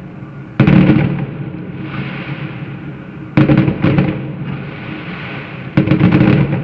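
Fireworks salute going off in volleys: three loud booms about two and a half seconds apart, the middle one followed closely by a second, each rumbling briefly before dying down.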